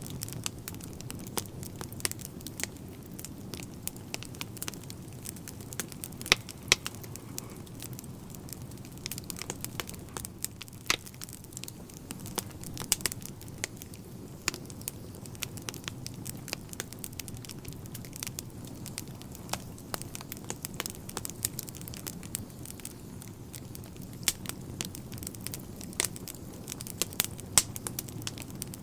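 Wood fire burning in a fireplace: a steady low rush of flames with frequent sharp crackles and pops of burning logs, a few louder pops scattered through.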